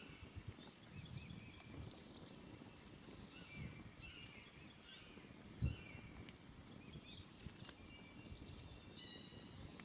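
Faint outdoor ambience of a smoldering campfire crackling and popping, with small birds chirping in short repeated calls throughout. One louder low thud comes a little past halfway.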